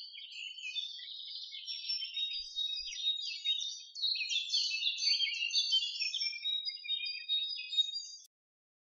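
Birds singing: a dense run of quick, high chirps that stops abruptly near the end.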